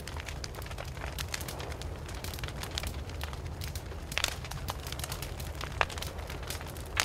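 Campfire burning with a steady low rumble and irregular crackles and sharp pops from the burning wood. The loudest pops come about four seconds in, just before six seconds and at the very end.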